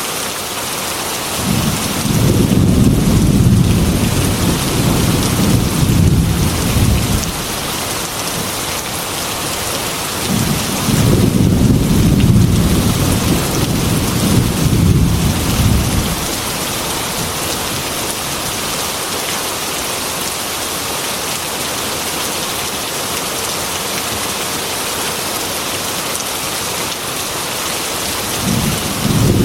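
Heavy rain falling steadily, with two long rolls of thunder about five seconds each, one early and one near the middle, and a third starting at the very end.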